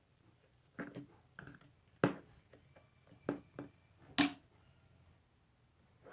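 Large blue slime being pressed and handled, giving a string of sharp popping clicks from trapped air, about seven over three and a half seconds.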